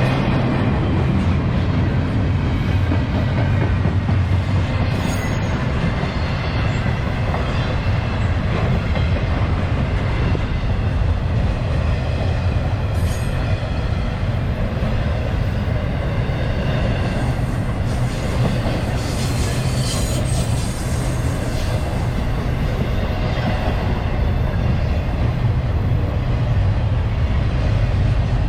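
A CSX freight train's cars rolling steadily past, a continuous rumble of steel wheels on rail with some high wheel squeal and a few clicks.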